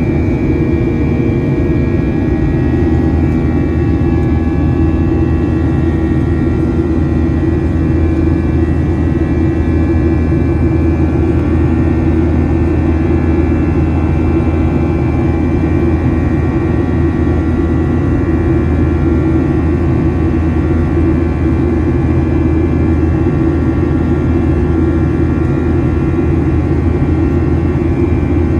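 Boeing 737 jet engines running with a steady roar, faint high whining tones held above a deep rumble.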